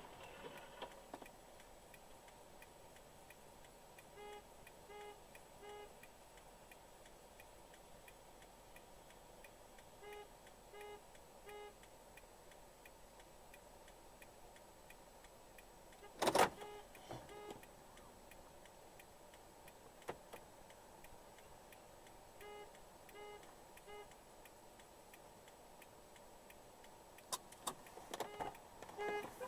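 Faint electronic beeping: three short pitched beeps in a row, about two a second, repeating roughly every six seconds over a quiet background, with one sharp knock about sixteen seconds in.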